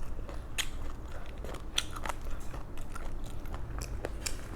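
Close-mic chewing and biting of crispy fried chicken, with a string of sharp, irregular crunches.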